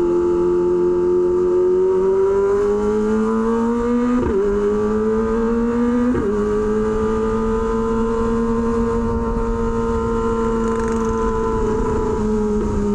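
Kawasaki Ninja ZX-25R's inline-four engine, through an SC Project aftermarket exhaust, pulling while riding. It rises steadily in pitch, is cut by two quick upshifts about four and six seconds in, then holds a nearly steady high-revving note at cruise. Road and wind noise lie underneath.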